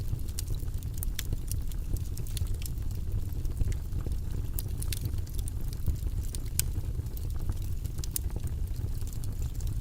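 Steady white-noise ambience, heavy in the low end, with scattered faint clicks at irregular times.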